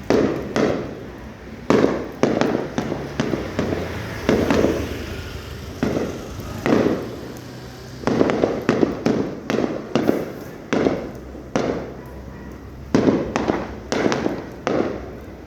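Aerial fireworks shells bursting in quick succession: sharp bangs, each trailing off in a rumbling echo, with tighter clusters of bangs near the end.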